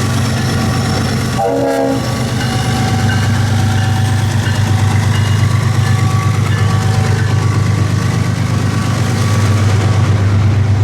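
Diesel-electric locomotives of a long CSX freight train running with a loud, steady low drone as the train departs, with a train horn sounding over it. There is a short break about a second and a half in.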